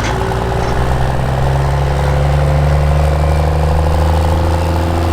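Turbocharged diesel pickup truck engine of a pro street pulling truck, running loud at steady high revs, its pitch stepping up slightly about a second and a half in.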